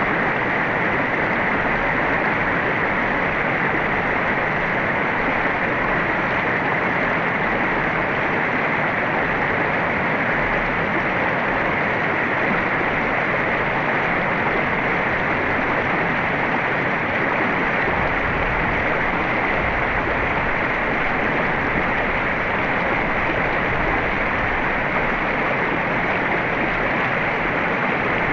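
Mountain river rushing steadily over rocks, a continuous even roar of flowing water.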